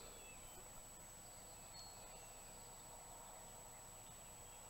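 Near silence in woodland, with a few faint, brief birds' chirps and whistles scattered through it.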